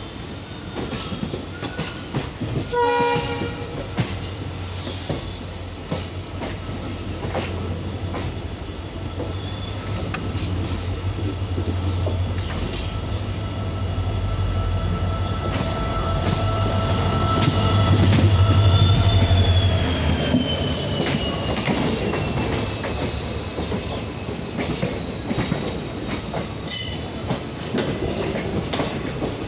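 Train wheels clattering over rail joints and points, with a short horn blast about three seconds in. An Indian Railways electric locomotive and its passenger coaches pass close by on the next track: a low hum grows to its loudest as the locomotive goes past, and its tones drop in pitch as it moves away.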